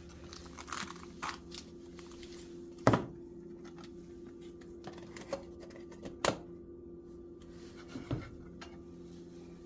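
Kitchen handling noises while cooking: a handful of short, sharp clicks and knocks, the loudest about three seconds in, over a steady low hum.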